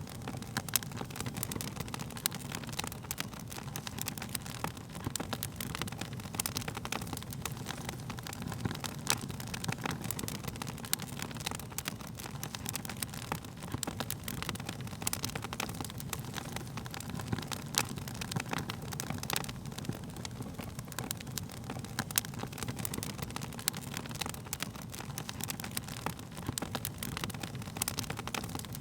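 Burning wood fire crackling: frequent irregular sharp pops and snaps over a steady low rumble of the flames.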